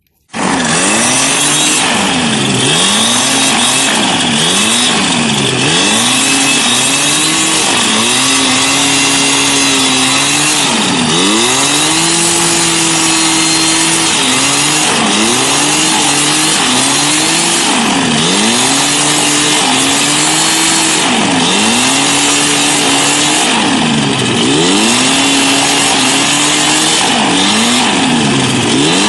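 Film-set wind machine running loud: its engine repeatedly dropping and rising in revs every second or two, under a dense rushing hiss of blown air. It starts abruptly about half a second in.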